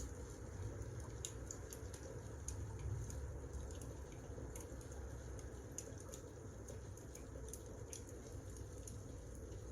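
Wood fire burning, with a steady low rumble under irregular sharp crackles and snaps from the logs.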